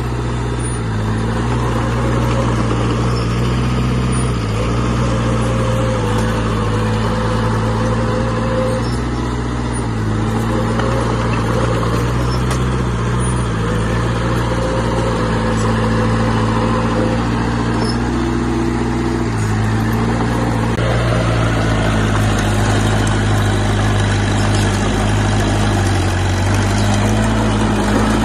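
Heavy diesel earthmoving machinery running under load, with a low engine note that steps up and down in pitch several times, notably around two-thirds of the way through and again near the end.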